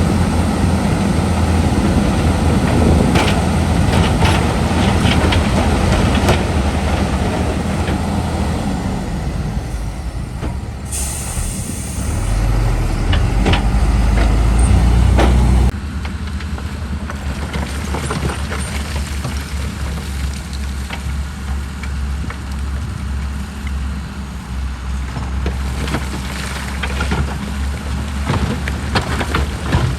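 Heavy diesel earthmoving machinery running, dump truck and bulldozer engines rumbling with scattered knocks of earth and stone. About eleven seconds in there is a short air-brake hiss, and a louder deep rumble follows that drops off abruptly around halfway through.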